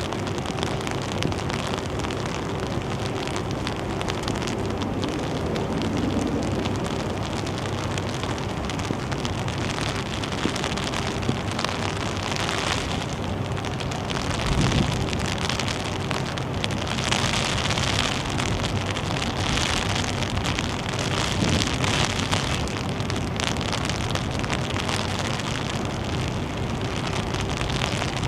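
Steady rain falling, with wind buffeting the microphone and swelling louder a few times.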